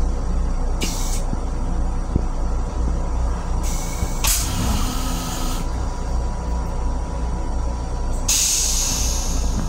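Steady low rumble inside a Metro-North M7 electric railcar, with bursts of air hiss: a short one about a second in, a longer one of about two seconds in the middle, and another near the end.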